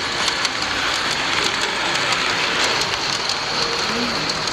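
Gauge 1 model trains running on the layout: a steady rushing roll of metal wheels on rails, with many scattered clicks.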